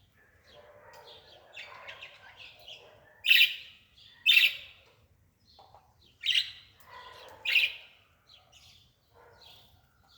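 Bird chirping: four loud, sharp calls a second or two apart, among fainter chirps.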